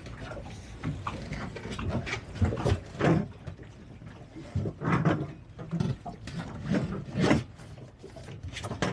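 Large seat cushions being pushed and stuffed into an under-seat storage locker on a small motorboat: irregular soft thumps, scuffs and rustles of the padding against the locker.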